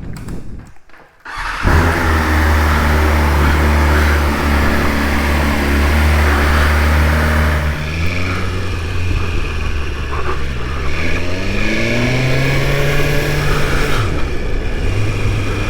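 2022 BMW S1000RR's inline-four engine starting about a second and a half in, then idling steadily. Later the engine note rises in pitch, holds, and drops back near the end as the throttle is opened.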